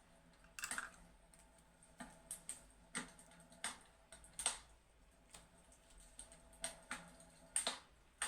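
Fireplace crackling: irregular sharp pops and crackles, one or two a second, some louder than others.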